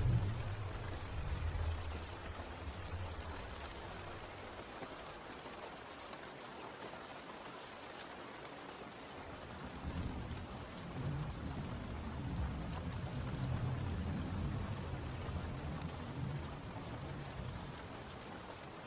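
Steady rainfall with rolling thunder: a low rumble fades away over the first few seconds, and another long rumble builds about halfway through and dies down near the end.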